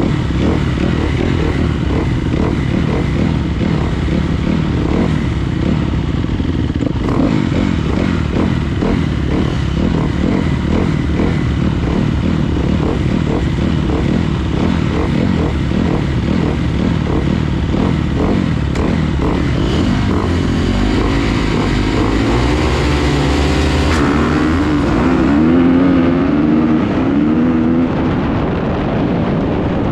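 Motocross dirt bike engine running hard at racing speed, its pitch rising and falling as the throttle opens and closes in the second half.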